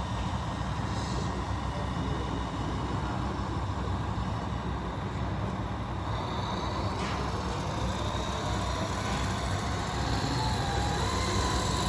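Radio-controlled model construction trucks running: a steady low rumble with a motor whine that comes in about halfway and slowly rises in pitch.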